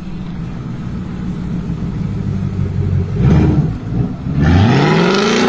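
BMW M6 Gran Coupe's twin-turbo V8 through an Akrapovic exhaust, its low rumble building, with a short rev blip about three seconds in. About four and a half seconds in it is pushed hard under acceleration, the pitch rising steeply and then holding high and loud.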